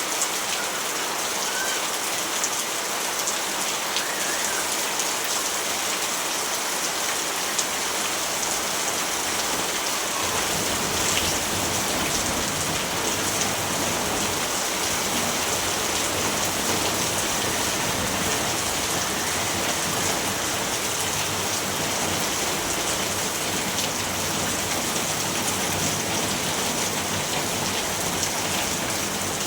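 Steady rain: a dense, even hiss of rainfall with scattered drop ticks, growing deeper in its low end about ten seconds in.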